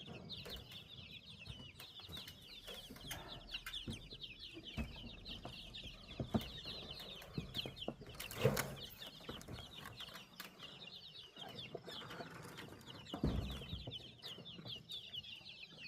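A crowd of baby chicks peeping without pause, a dense chorus of short, high, falling chirps. A few knocks sound over it, with louder thumps about eight and a half and thirteen seconds in.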